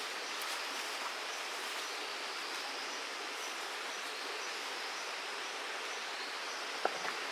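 Steady rush of flowing stream water, with a single sharp click near the end.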